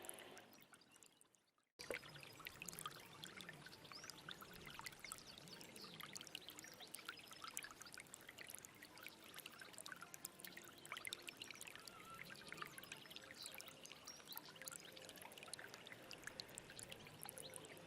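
Stream water trickling and splashing, with many small quick splashes over a steady rush. It fades out at the very start, is silent for a moment, then cuts back in abruptly about two seconds in.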